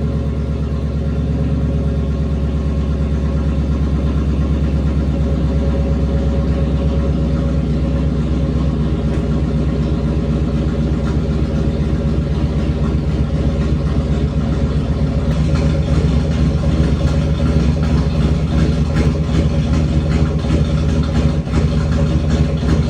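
Cammed 5.7-litre V8 with shorty headers and a straight-pipe exhaust idling steadily just after a cold start at 22 degrees. It gets a little louder about fifteen seconds in.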